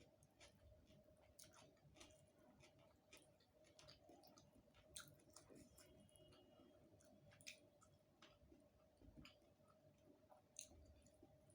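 Faint, close-miked eating sounds: chewing a rice-and-curry meal, with irregular small clicks and crackles from the mouth. A faint steady hum runs underneath.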